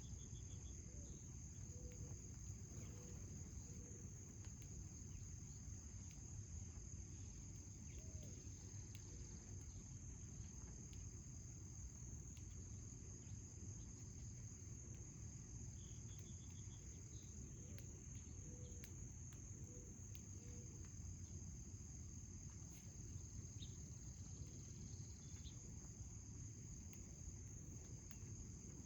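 Crickets trilling steadily and high-pitched in a garden over a faint low rumble. A bird gives a short rapid trill twice, at the start and about halfway through.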